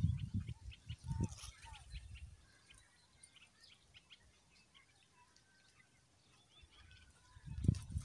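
Small songbirds chirping in the trees: quick, high, scattered chirps and a few short whistled notes. A low rumbling noise is loud at the start, fades within the first two seconds and returns briefly near the end.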